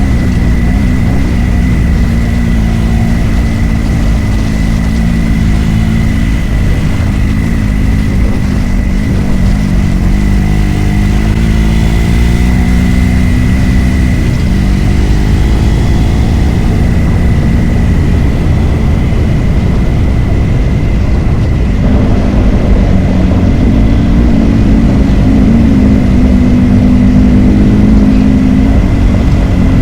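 Motorcycle engine running under way, with heavy wind rush over the microphone. The engine note dips and rises in pitch around the middle and gets a little louder about two-thirds of the way through. A thin steady high whine sits over it.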